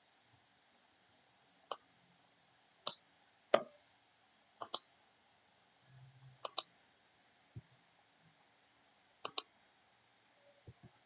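Computer mouse clicking, a few seconds apart: four single clicks and three quick double clicks.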